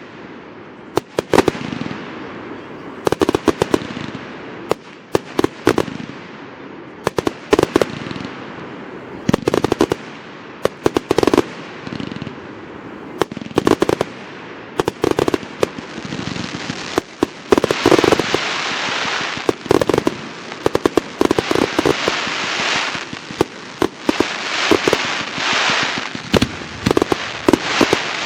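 Fireworks display: sharp bangs of bursting shells, some single and some in rapid clusters. From about halfway through, a continuous hiss joins and carries on between the bangs.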